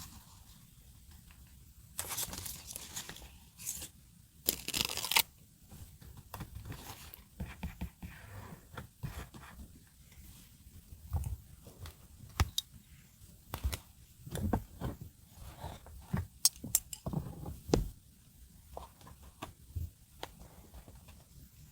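Paper and masking tape being handled for journaling: a tearing rip about two seconds in and a louder one about four and a half seconds in, then scattered light taps, clicks and rustles of paper.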